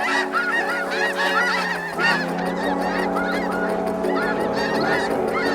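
A large flock of snow geese calling, many short, high honks overlapping into a continuous clamour.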